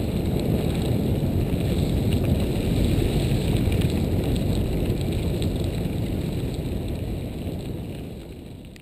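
Riding noise of a mountain bike on the move, heard through a GoPro's microphone: wind rumble with tyre noise and small rattles and clicks, fading out over the last second or so.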